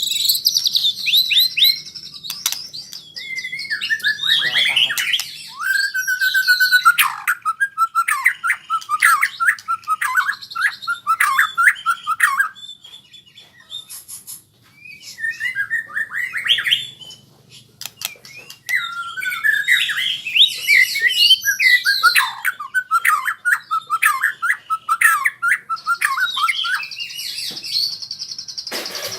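White-rumped shama (murai batu) singing long runs of quick whistled notes and trills, breaking off twice about halfway through before starting up again. The bird is practising its continuous rolling song (ngerol).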